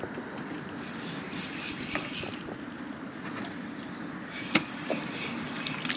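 Steady background noise on a drifting boat, with a few light clicks and one sharp knock about four and a half seconds in.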